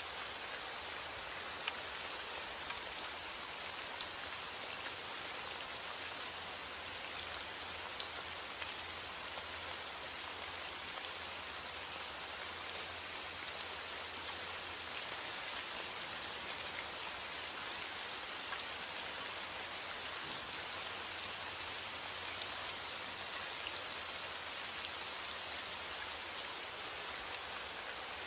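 Steady rain: a dense, even hiss of falling rain with many individual drops ticking through it.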